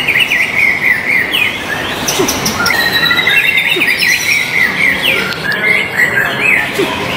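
White-rumped shama (murai batu) song: fast runs of quickly repeated chirps and rattling trills, phrases overlapping one after another.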